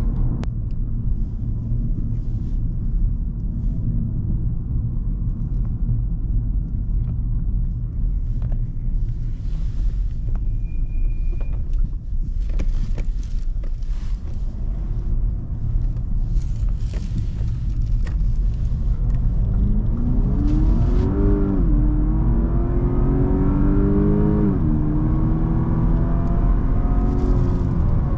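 Cadillac CTS's 3.6-litre twin-turbo V6 and tyre rumble while cruising, then the engine accelerating about two-thirds of the way in: a rising note that drops with an upshift, rises again and drops with a second upshift before levelling off.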